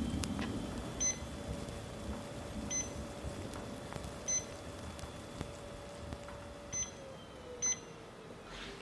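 Copier machinery running with a steady hum that winds down in pitch near the end, while short high electronic beeps sound about six times.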